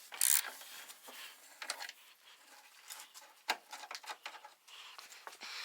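Irregular light clicks, taps and rustling of hands working on parts in a car's engine bay, with a sharper knock about three and a half seconds in.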